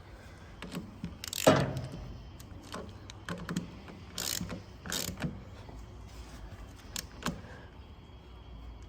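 Socket wrench with a 15 mm socket clicking and clinking on metal as a bolt is fastened. Short irregular knocks, the loudest about a second and a half in.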